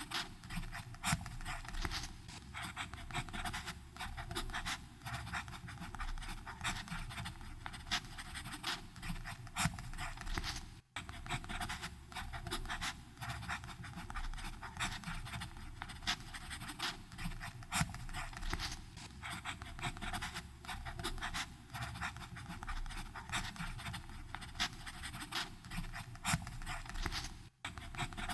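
Fountain pen nib scratching across paper in continuous writing strokes, full of small ticks and scrapes. The sound cuts out for an instant twice, about eleven seconds in and near the end.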